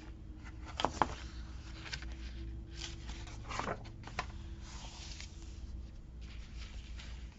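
Paper handling: a sticker book and sticker sheets being leafed through and shifted, giving a few short soft rustles and taps over a steady low hum.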